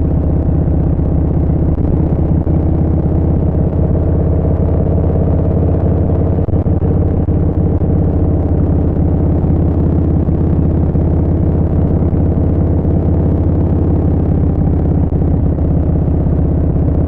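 Harley-Davidson Street Bob 114's Milwaukee-Eight 114 V-twin running through a Vance & Hines Short Shots full exhaust, cruising at a steady engine speed, heard from the rider's seat.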